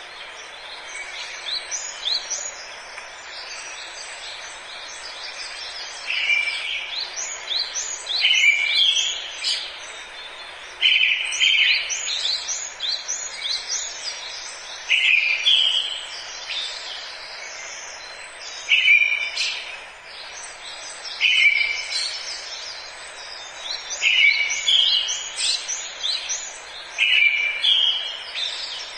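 Forest birds singing over a steady background hiss: quieter chirps at first, then from about six seconds in one bird repeats a loud song phrase every three seconds or so, with other birds chirping between.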